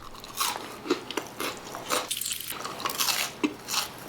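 Close-up crunchy chewing of a hard cereal-and-marshmallow crispy treat: a steady run of irregular crunches, several a second.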